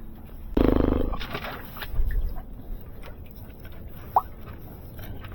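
A short strained grunt about half a second in, then scattered light knocks and clicks of hands working material under a pipe, with a brief squeak about four seconds in.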